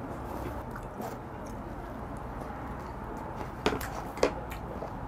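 A person chewing a mouthful of firm, cartilaginous raw skate salad, with small crunches and two sharp clicks about three and a half and four seconds in.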